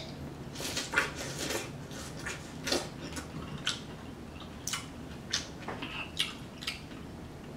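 Biting and chewing cantaloupe slices: wet mouth clicks and smacks at irregular intervals, with a little handling of the slices in a glass dish.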